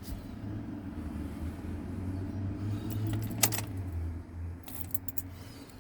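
2005 GMC Sierra 4.3L V6 cranking steadily on its starter for about five seconds without catching, then stopping, with a single click partway through. It is a no-start: the fuel pump can't be heard running and the fuel gauge doesn't rise, which the owner takes for an electrical fault.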